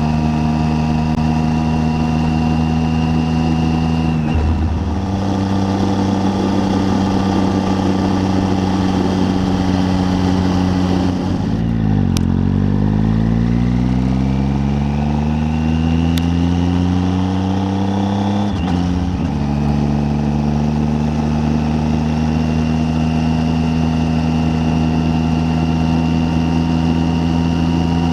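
Triumph Tiger 800's three-cylinder engine under way, heard on board. The revs hold steady, drop a step about four seconds in, fall sharply and then climb for several seconds past the middle, and drop a step again before settling at a steady pitch: gear changes while riding.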